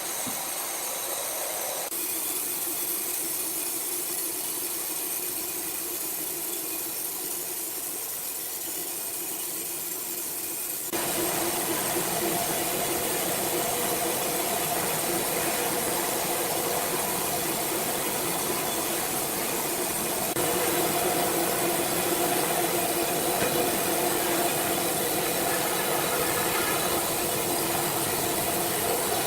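Sawmill machinery running: a steady mechanical noise with a strong hiss and faint steady hum tones. It gets louder and changes character abruptly a few times.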